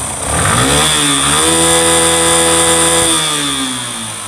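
Yamaha FZS version 1's single-cylinder engine revved once: the pitch rises, holds steady for about two seconds, then falls back toward idle. It is running on a freshly fitted camshaft, rocker arm and rocker pin, which cured a worn cam's noise.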